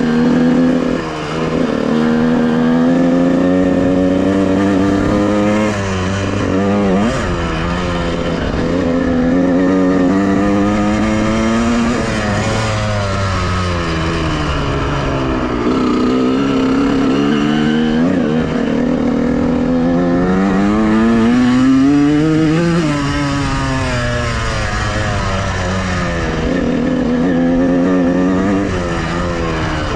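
Honda CR125R's single-cylinder two-stroke engine running while the dirt bike is ridden, its pitch climbing under throttle and dropping back again and again as the rider works the throttle and gears.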